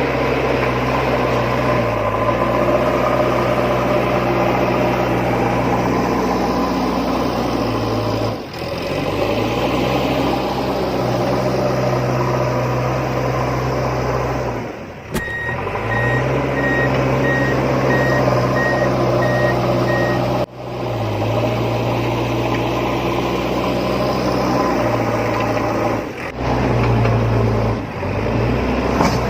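Heavy truck engine running steadily, broken off briefly a few times, with a run of high reversing beeps for about five seconds midway.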